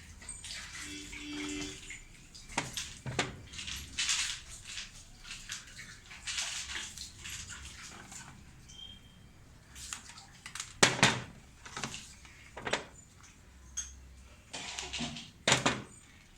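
Hands working on a washing machine: irregular scraping and splashing, broken by sharp knocks, the loudest about eleven and fifteen and a half seconds in.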